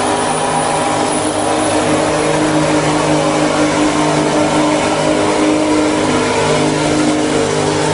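Racing truck's diesel engine held at high revs at a steady pitch during a burnout, with a hiss of spinning tyres underneath.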